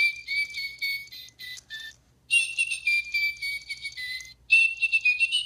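Electronic toy bird playing its chirping song when its back is rubbed: three phrases of high whistled chirps, each sliding slightly down in pitch, with short pauses between.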